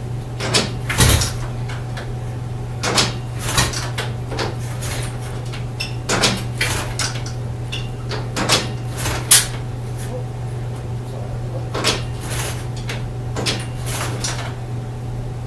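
Kick-starter of a 1949 Ariel Square Four motorcycle being worked repeatedly: a series of sharp metallic clattering knocks, irregularly spaced every second or two, without the engine catching. A steady low hum runs underneath.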